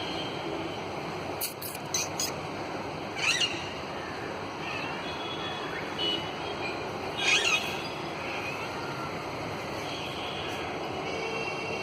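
Green parrot squawking: two loud harsh squawks about three and seven seconds in, with a few fainter calls between, over a steady hum of city traffic. A few sharp clicks sound near two seconds in.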